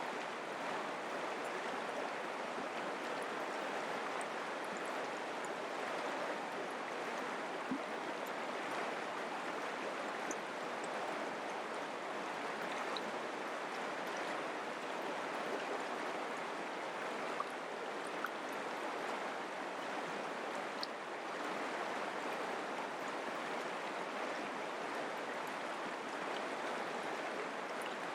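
Mountain creek water flowing steadily over rocks, an even rushing with a few faint clicks scattered through it.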